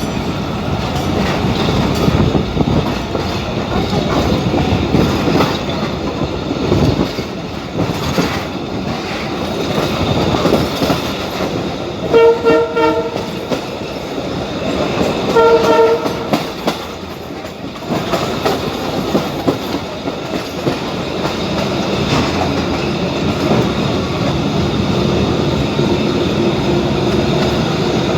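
Passenger train running, heard from on board: a steady rumble and rattle of wheels on the track. About halfway through the horn sounds twice, the first blast about a second long and the second shorter.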